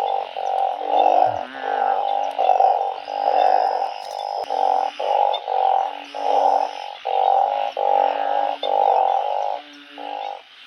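A dense chorus of narrow-mouthed frogs (Thai 'oung') croaking, many calls overlapping almost without a break. It thins out near the end.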